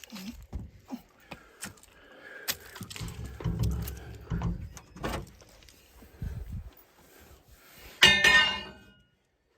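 Scattered knocks and handling noises of metal parts, then one loud metallic clang about eight seconds in that rings for about a second.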